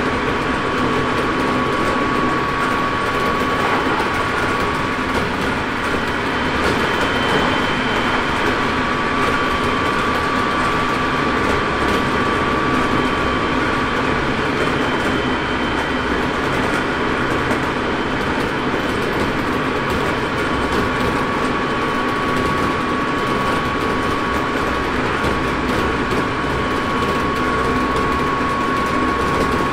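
Inside a Hokuso Railway 7300 series electric train running at about 100 km/h: a steady rumble of wheels on rail and running gear. A thin, steady whine fades in and out over it.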